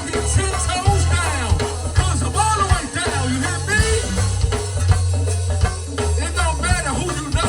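Live gospel band playing: a heavy, steady bass line under drums and percussion, with a sliding melody line on top.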